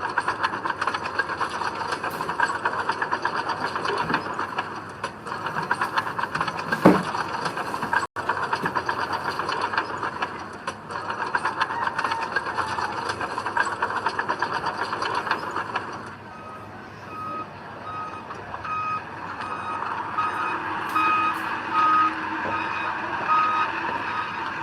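Heavy earthmoving machinery running with a dense, rapid clatter. About two-thirds of the way in the clatter drops away and a reversing alarm starts beeping steadily over the engine, a little more than once a second.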